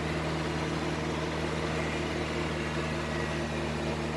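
Dump truck's diesel engine running steadily, a constant low hum with no change in pitch.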